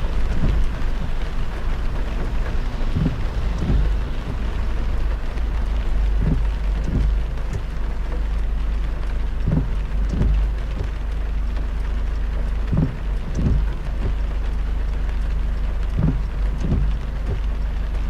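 Heavy rain pattering on a moving car over the steady low rumble of the car and tyres on a wet road. Pairs of short thuds come about every three seconds.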